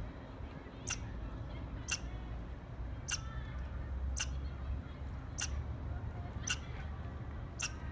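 A squirrel chirping: seven short, sharp calls, evenly spaced about once a second, over a low steady background rumble.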